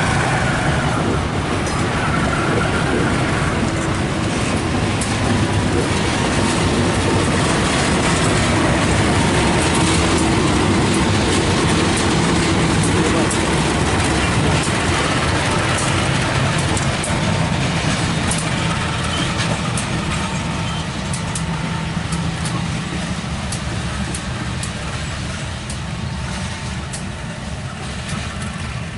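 Diesel train moving through the station: a steady low engine rumble with clicks and rattles of wheels on the rails, growing fainter in the last few seconds.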